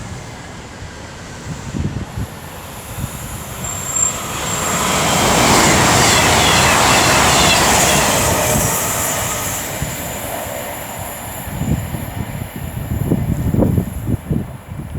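Class 221 Super Voyager diesel multiple unit passing through on the main line: a rush of train noise builds, peaks about six seconds in and fades away, with a thin high squeal from the wheels early in the pass.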